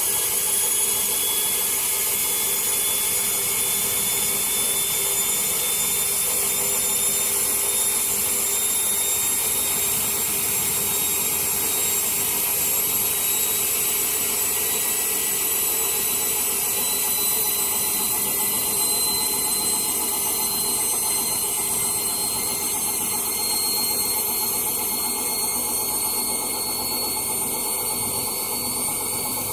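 Candy washing machine on its spin, a steady motor whine with several high tones that climb slowly in pitch as the drum gathers speed.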